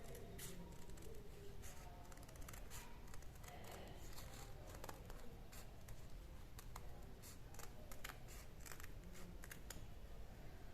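Scissors cutting through stiff buckram: a run of short, crisp snips at irregular intervals, fairly faint.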